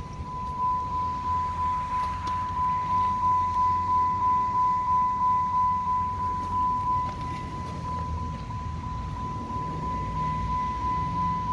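2010 Dodge Charger SRT8's 6.1-litre Hemi V8 idling through a loud modified exhaust: a low rumble that swells and fades about twice a second for the first several seconds, then evens out. A steady high-pitched tone sounds over it.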